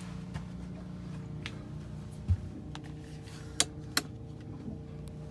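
A steady low mechanical hum, with a dull thump about two seconds in and two sharp clicks close together a little later.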